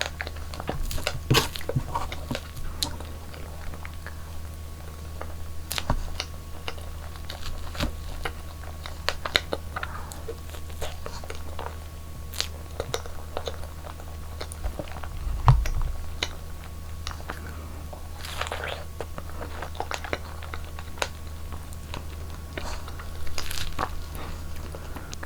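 Close-miked eating sounds: biting into and chewing strawberries and soft cream cake, with many small wet clicks and crunches at an irregular pace. A louder bump comes midway, over a steady low hum.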